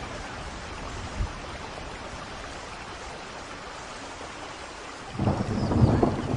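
Steady rain falling, then about five seconds in a louder, deep rumble of thunder sets in.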